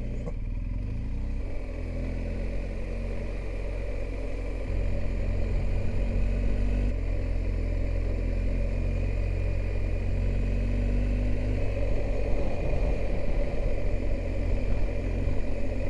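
Motorcycle engine running steadily on the move, with road and wind noise; it gets a little louder about five seconds in.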